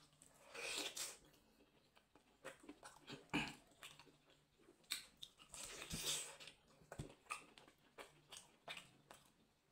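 Close-miked biting and chewing of a roasted chicken drumstick: irregular mouth clicks and short crunches, with the sharpest crunch about three and a half seconds in.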